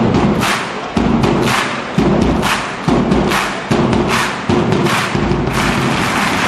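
A large drum beaten in a steady march-like rhythm, a heavy beat a little more than once a second, with sharper high strokes between the beats (claps or a cymbal). The drumming stops about five and a half seconds in, leaving a steady crowd hum.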